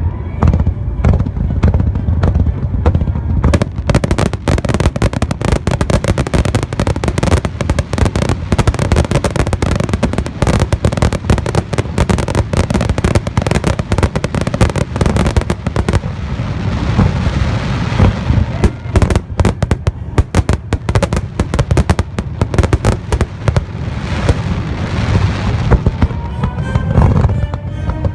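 Fireworks display: continuous booming of aerial shells with dense crackling, the crackle thickest from about four seconds in until near the end.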